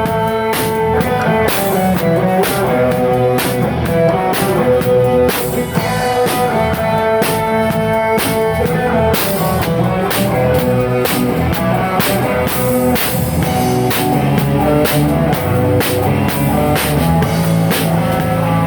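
Live rock band playing: a drum kit keeping a steady beat under sustained guitar notes.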